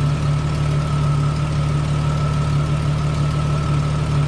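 1998 Jeep Cherokee XJ engine idling steadily, a low even hum with a steady high tone running above it.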